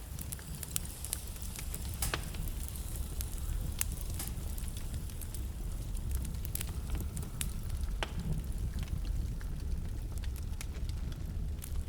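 Wood fire burning in a fireplace: a steady low rumble of flame with irregular sharp crackles and pops from the burning logs, a few of them louder, around 2, 4 and 8 seconds in.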